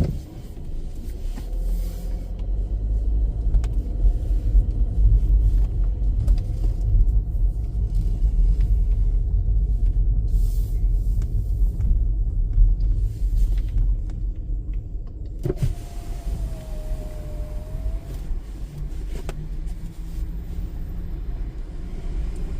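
A car's engine and road noise heard from inside the car: a steady low rumble, with a brief whine lasting about two seconds roughly two-thirds of the way through.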